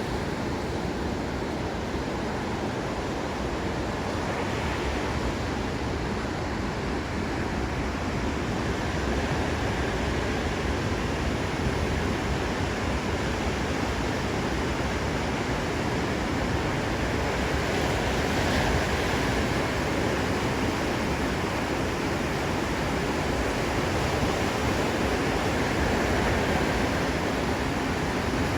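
Ocean surf breaking on a beach: a steady wash of waves, growing a little louder about nine seconds in.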